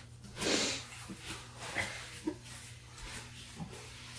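A person breathing out audibly through the nose about half a second in, then a few faint clicks over a low steady hum.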